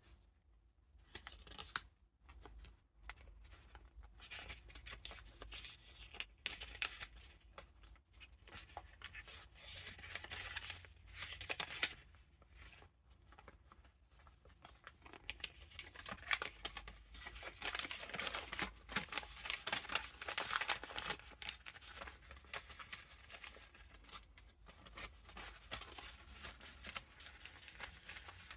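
Paper pages of a handmade junk journal, with vintage paper ephemera, being turned and handled. The paper rustles and crinkles in irregular bursts with small clicks, busiest in the second half, over a steady low hum.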